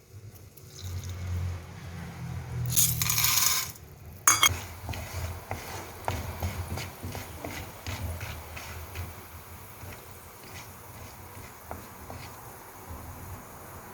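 Popcorn popping in a pan: a loud hiss lasting about a second, about three seconds in, then a sharp metallic clink, then many scattered pops that thin out toward the end.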